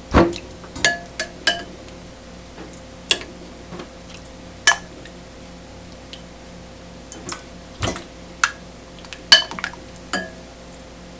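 Tableware knocking together: dishes and utensils clink about a dozen times at irregular intervals, each with a short bright ring, over a faint steady hum.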